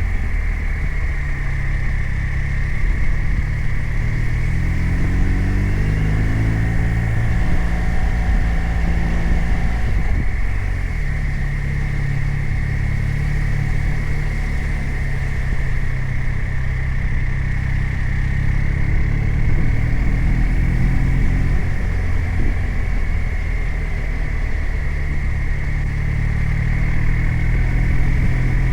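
BMW R 1250 RT's boxer-twin engine running under way. Its note rises about five seconds in, then drops back around ten seconds in and holds steady.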